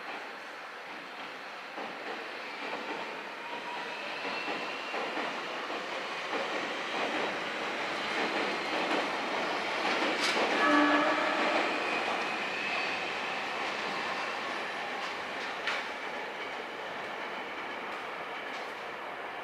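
TRAIN SUITE Shiki-shima (JR East E001 series) running through the station, its wheel and running noise building up and easing off again. A brief horn note sounds at the loudest point, a little over ten seconds in.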